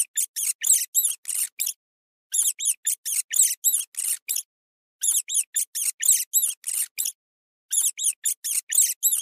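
Rabbit squeaking: rapid runs of short, very high-pitched squeaks, about eight to ten in each run, four runs with short pauses between them.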